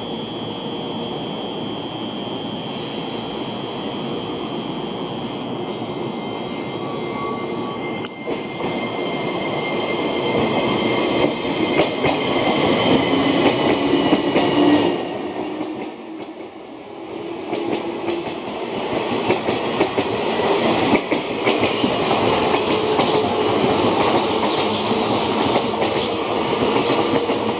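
Limited express electric train running through a station, its wheels clattering over the rail joints with some squeal. Growing louder after several seconds, with a faint whine that slowly falls in pitch.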